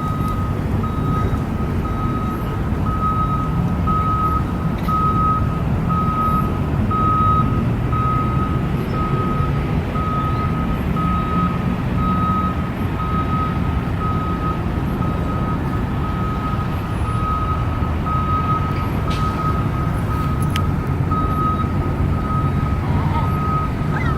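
Vehicle back-up alarm beeping steadily at one high pitch, about three beeps every two seconds, over a steady low engine rumble.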